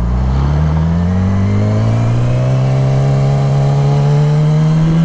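Motorcycle engine accelerating, its pitch rising steadily for the first two or three seconds and then holding steady.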